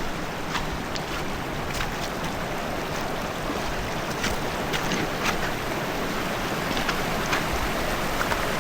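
Rain-swollen braided river rushing steadily, with heavy rain falling and scattered sharp taps of raindrops close by.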